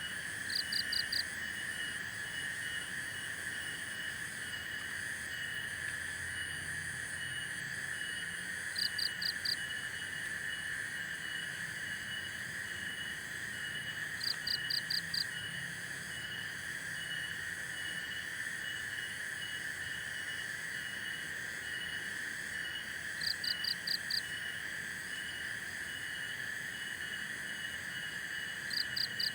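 Outdoor chorus of insects and frogs: a steady high drone with a fast, regular chirping over it, and five times a short burst of quick, higher notes.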